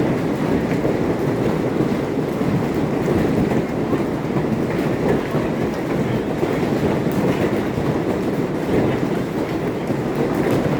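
Heavy hail falling, a loud, steady, dense clatter of hailstones striking hard surfaces.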